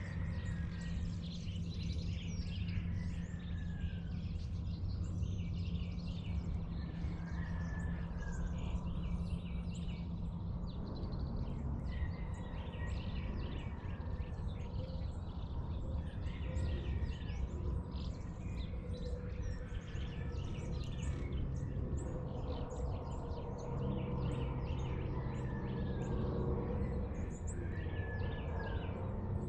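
Dawn chorus of birds: many short chirps overlapping, with a whistled, downward-slurring note repeating every few seconds, over a steady low hum.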